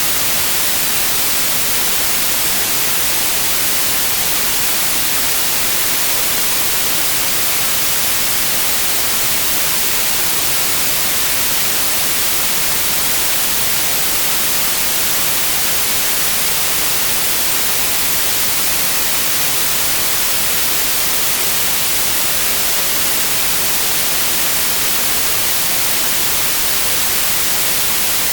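Steady, loud white noise: an even, unchanging hiss, brightest in the treble.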